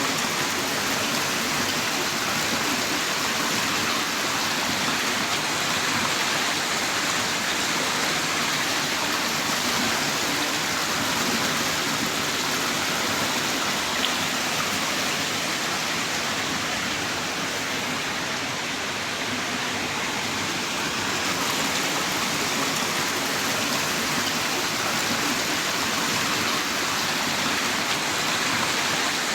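Heavy rain downpour, a steady, even hiss of falling rain.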